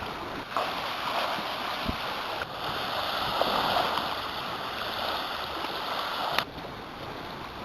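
Steady hiss of water, rain or lake water, in several short stretches that change abruptly about half a second, two and a half seconds and six and a half seconds in.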